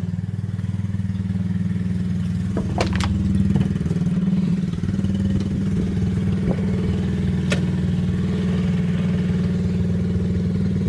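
Dirt bike engine idling steadily, a little louder for a moment about three seconds in, with a few sharp clicks around then and another later.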